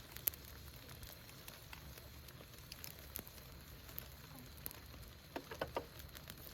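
Faint crackling of a fire: a low hiss with scattered small pops, a few louder ones near the end.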